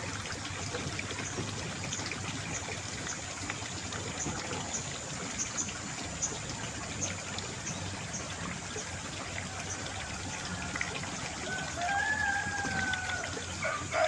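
Water trickling steadily, with a rooster crowing near the end in one long, slightly falling call.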